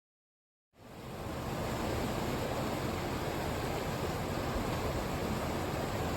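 Rushing floodwater of a creek swollen over its banks by heavy rain, a steady full rush of water that fades in from silence about a second in.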